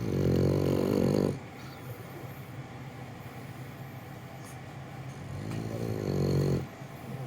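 French bulldog snoring in its sleep: two loud snores, each a little over a second long, about five seconds apart.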